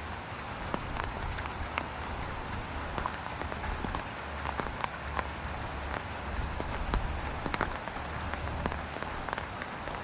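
Rain falling on standing floodwater: a steady hiss peppered with many small drop splashes, over a low rumble that comes and goes.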